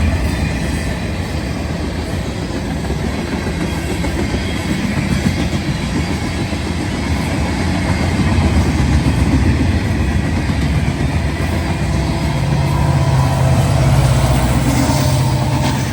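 Freight train rolling past close by: a steady loud rumble and rattle of rail cars on the track.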